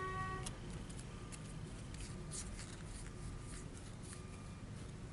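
Trading cards being handled and flipped through: scattered light clicks and rustles of card stock over a low steady hum.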